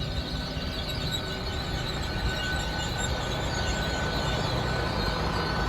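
Great Western Railway Class 800 train, unit 800 306, running at Pewsey as it gets ready to depart. A steady rumble and hiss with a faint steady whine, slowly growing louder.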